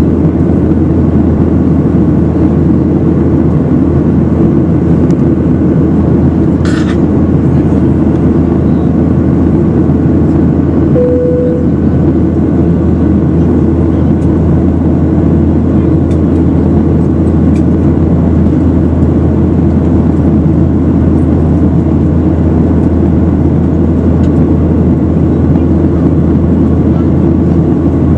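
Steady, loud engine and airflow noise inside an airliner's cabin during the climb after takeoff. A brief single tone sounds about eleven seconds in.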